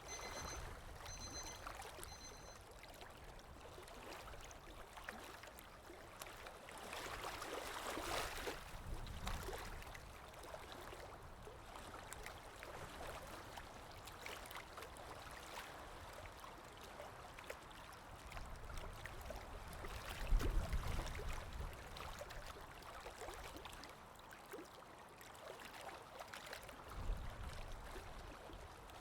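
Digital watch alarm beeping rapidly for the first couple of seconds, then water lapping steadily with wind, the wind swelling into low gusts now and then.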